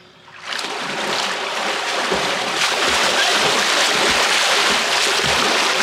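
Continuous splashing and churning of water, as swimmers thrash about and move quickly through it, building up about half a second in and keeping on loud and steady.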